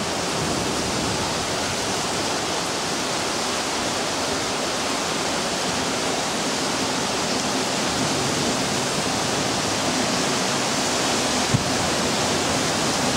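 Heavy thunderstorm rain pouring down, a steady even hiss, with one short knock near the end.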